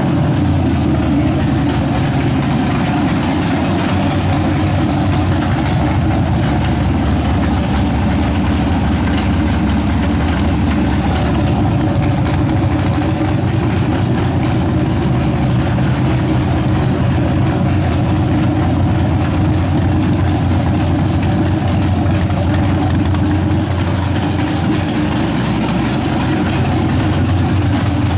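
LQ9 6.0-litre V8 with a stage 2 cam, running steadily at idle.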